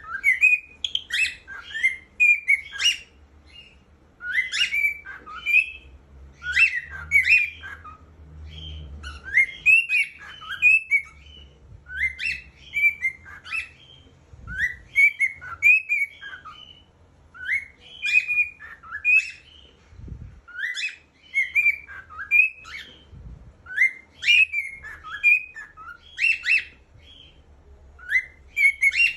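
Cockatiel singing: a short whistled phrase of rising and falling chirps, repeated over and over about every two seconds.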